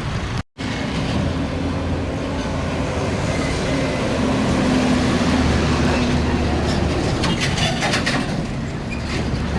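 Heavy diesel truck engine running as it passes on the road amid traffic, its low hum swelling through the middle and easing off, with some sharp clicks and hiss near the end. The sound drops out briefly half a second in.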